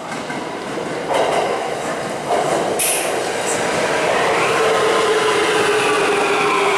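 Electric train pulling in alongside the platform, wheels rumbling and knocking over the rail, with a short hiss about three seconds in. From about four seconds in, the motor whine falls slowly in pitch as the train slows.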